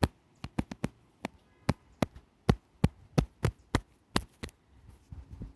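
A quick, irregular run of sharp clicks or knocks, about fifteen in four and a half seconds, then a low rumble near the end.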